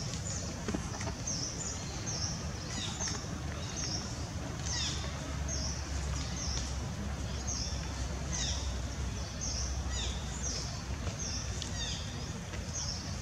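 A small bird chirping over and over, short high calls about once a second, over a steady low rumble.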